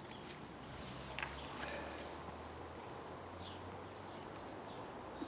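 Faint birdsong outdoors: short, high chirps repeated throughout over a low background rumble, with a soft tap about a second in.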